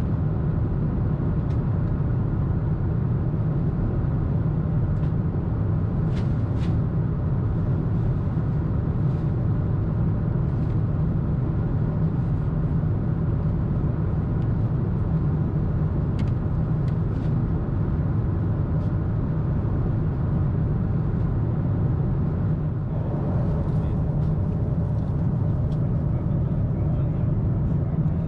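Steady cabin noise of a Boeing 747-8 airliner in cruise: a deep, even rumble of airflow and engines, with a few faint clicks.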